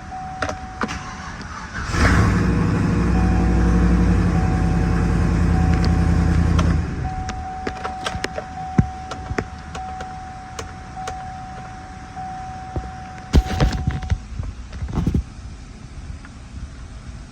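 2010 Chevrolet Silverado 1500's 5.3-litre V8 starting about two seconds in, running steadily for about five seconds, then shutting off, while a dashboard warning chime beeps on and off. Clicks and a few thumps follow near the end.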